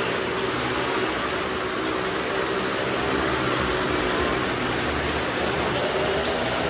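Engines of several cars and motorcycles circling the wooden wall of a well of death at once: a loud, steady mixed engine drone whose notes waver up and down as the vehicles go round.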